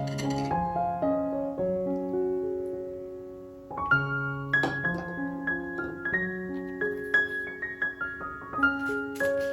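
Background solo piano music: a gentle melody of held notes over a low accompaniment. One phrase fades out and a new one begins about four seconds in.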